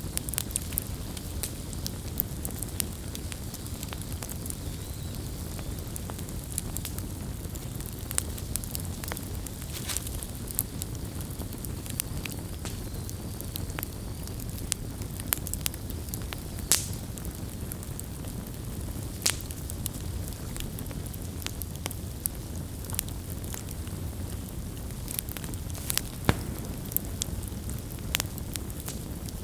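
Campfire burning steadily, with a low rumble of the flames under frequent sharp, irregular crackles and pops of the burning wood.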